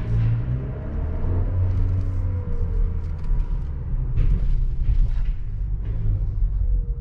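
Haval H6-GT's 2.0-litre four-cylinder engine and exhaust in Race Mode, a steady low rumble heard from inside the cabin as the SUV drives at low speed. A few short clicks come in the middle.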